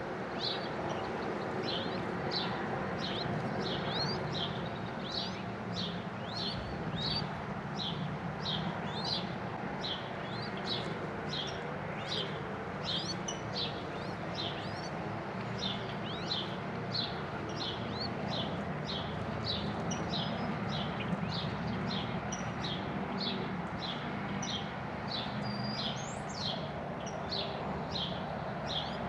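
A bird chirping over and over in a steady rhythm, short high chirps about one and a half a second, over a steady low background rumble.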